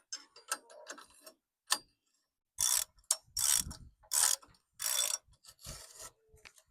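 Hand ratchet tightening bolts: a few light clicks, then about five back-and-forth strokes, each a short burst of rapid ratchet clicking, starting about two and a half seconds in.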